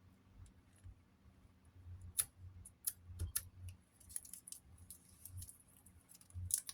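Quick, high scratching and picking at leftover sticker paper stuck to a box fan's cabinet: a few separate scrapes, then a fast run of them in the second half.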